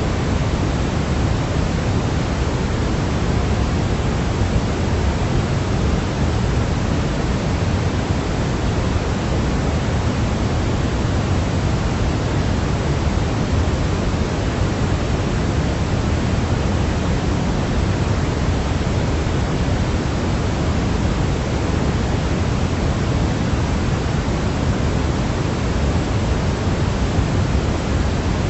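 Steady synthetic noise for baby sleep, heavier in the low end than the highs, like pink noise: an even hiss-rumble that never changes.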